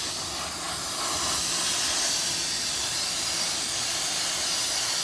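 Sandblaster blasting an engine: a steady, loud hiss of compressed air and sand.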